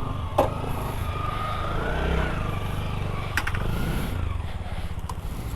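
Motorcycle engine running with steady low firing pulses, with two sharp knocks, one about half a second in and one about three and a half seconds in.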